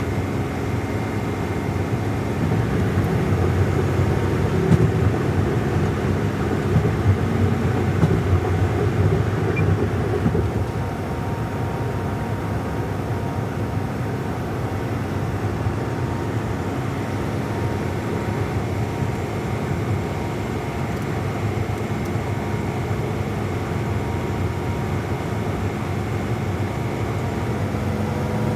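Semi-truck engine and road noise while driving, a continuous low rumble with a steady engine drone. It is louder and rougher for the first ten seconds or so, then settles to an even level.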